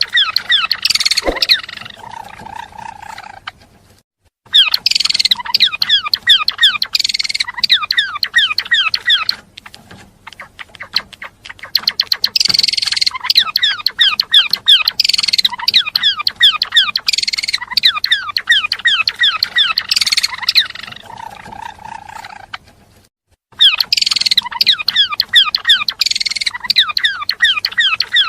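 Gelatik belong songbird singing in long, fast chattering phrases of quick falling notes, broken by two brief pauses.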